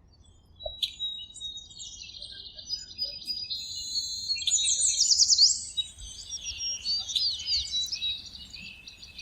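Several songbirds chirping and trilling at once, in quick high overlapping phrases that grow louder toward the middle.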